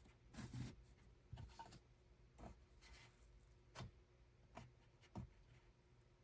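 Faint, soft taps and knocks, about eight of them at irregular intervals, over a low steady hum.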